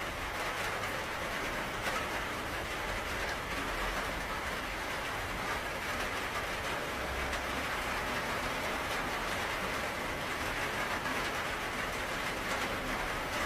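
Steady, even rainfall hissing without a break, with faint scattered drop ticks and a low rumble underneath.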